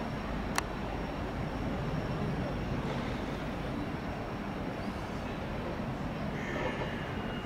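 Distant passenger train running across the station tracks: a steady, even low rumble, with one sharp click about half a second in.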